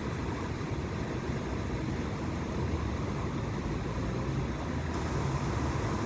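Steady low rumbling background noise with a faint hiss, with no distinct calls or knocks standing out.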